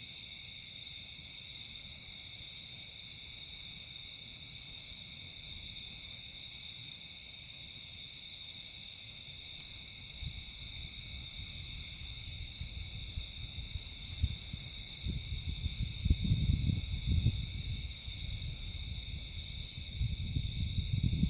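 Steady chorus of crickets and other night insects, with a high pulsed chirp recurring every few seconds. About halfway through, low rumbling gusts come in and grow louder toward the end.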